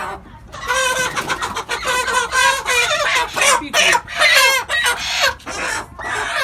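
A flock of chickens clucking, many calls overlapping, busiest through the middle and easing off near the end.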